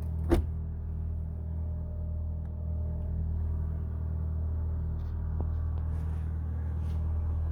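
Hyundai Accent engine idling steadily, warming up shortly after a cold start in snow. One sharp knock about a third of a second in.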